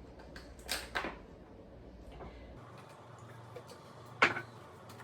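Kitchen handling sounds while oil is added to seasoned raw chicken: a couple of soft knocks about a second in, then one sharp click or knock near the end.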